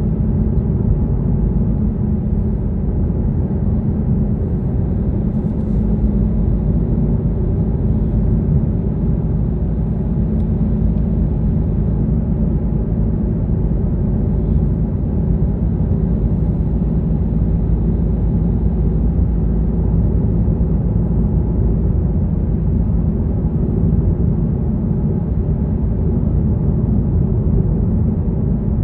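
Car on the move: a steady low rumble of engine and road noise that holds level throughout.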